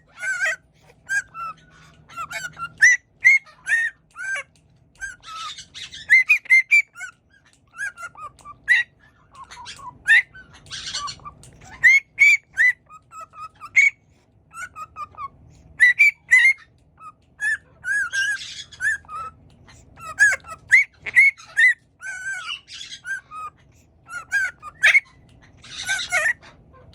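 Conure parrot whistling in quick, repeated short chirps and whistles, broken now and then by brief harsh squawks.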